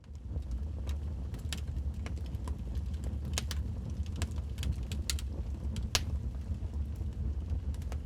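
Wood fire burning in a fireplace: a steady low rumble of the flames with frequent irregular crackles and pops from the burning logs, one sharper pop about six seconds in.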